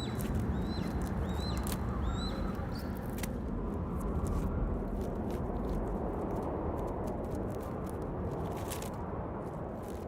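A young golden eagle's short, high chirping calls, five or six notes in quick succession in the first second and a half. Under them a steady low rumble, with scattered faint clicks.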